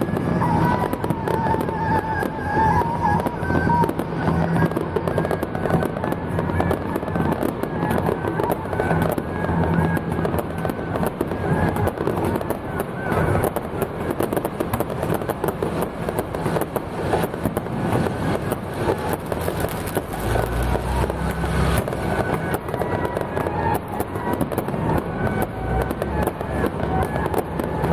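Firecrackers crackling in a dense, unbroken barrage, with festival music underneath. A deeper low rumble joins for a couple of seconds about twenty seconds in.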